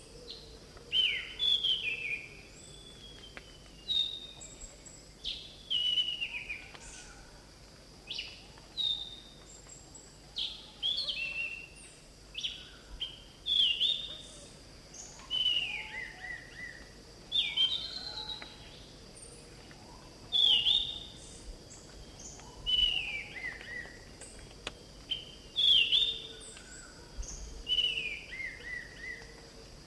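Orange-banded thrush (anis cendana) singing loud whistled phrases that slide down in pitch, a new phrase every second or two, over a steady high hiss.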